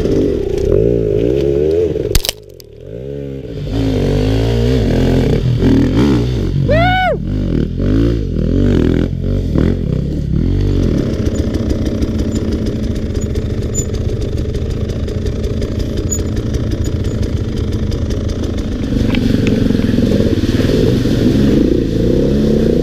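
Dirt bike engine revving up and down in repeated bursts as it climbs a steep hard-enduro line, with a clear rise and fall in pitch around seven seconds in. The sound drops away sharply for about a second a little over two seconds in, then resumes.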